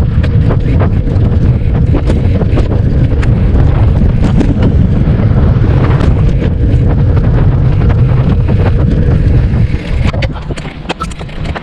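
Wind buffeting the microphone as a bicycle is ridden, a loud low rumble that eases off near the end.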